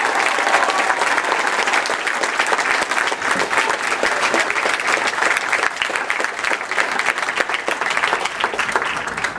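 Crowd applauding, a dense steady clapping that eases slightly toward the end and stops at about nine seconds.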